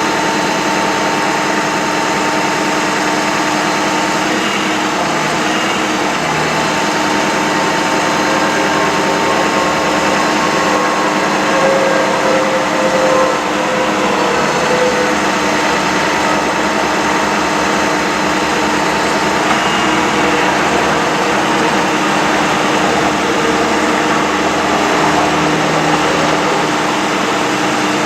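2009 Ford F-550 bucket truck's engine running steadily at a constant speed, with steady whining tones over it.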